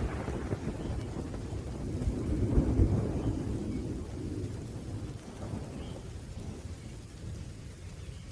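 Thunder rumbling over steady rain: a low roll swells about two seconds in and slowly fades away.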